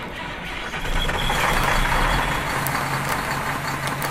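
A steady engine-like running sound with a low hum, growing louder about a second in and then holding steady.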